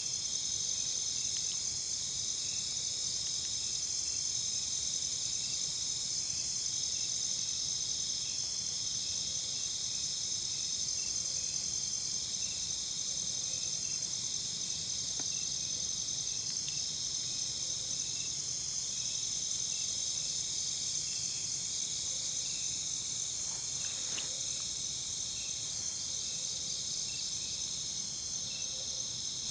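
Insects chirring together in a steady high chorus, with one call repeating about every second and a half.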